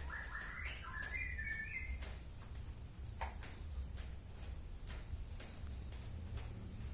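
Small birds chirping: a quick run of short chirps stepping upward in pitch in the first two seconds, then scattered thin high calls, over a steady low hum and faint clicks.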